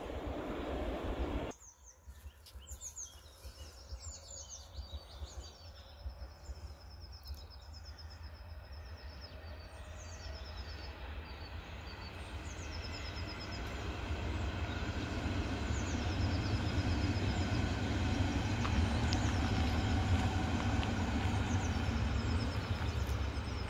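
Berlin S-Bahn electric train running on a far track, a low rumble that grows louder through the second half as it approaches and passes. Birds sing throughout with repeated high trills. Wind buffets the microphone for the first second and a half, then cuts off suddenly.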